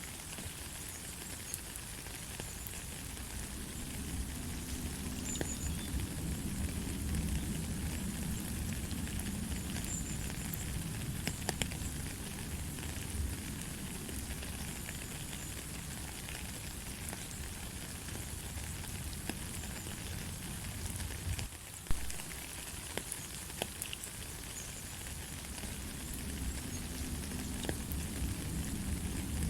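Steady light rain, a continuous hiss of falling water with many small drop taps and a low rumble underneath. About two-thirds of the way through, the rain dips for a moment and then comes a single sharper, louder tap.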